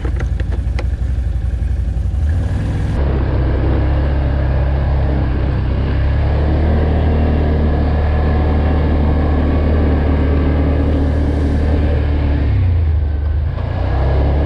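ATV engine running steadily as the quad is ridden along a trail, a low drone that grows louder about three seconds in and dips briefly near the end.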